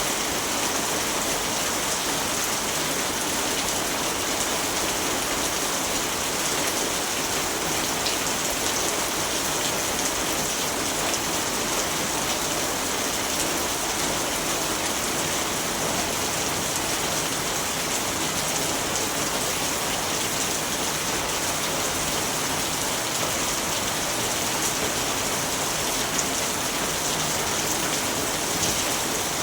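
Steady, even rainfall with many small drops hitting a surface, with no distinct thunder or separate events.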